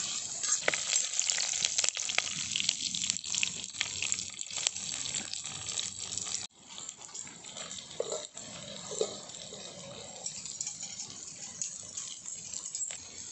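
Whole spices and bay leaf sizzling in hot oil in a clay pot, with a metal slotted spoon clicking and scraping against the pot. About halfway through the sound drops suddenly to a quieter sizzle as chopped green chillies and onion fry.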